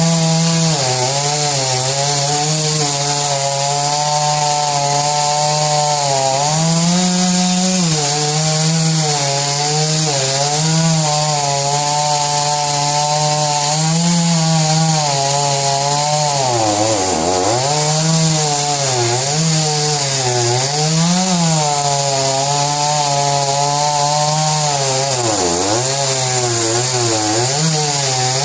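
Two-stroke chainsaw running hard under load in a cut, its pitch wavering up and down. It drops sharply twice as the saw bogs in the wood, then picks back up.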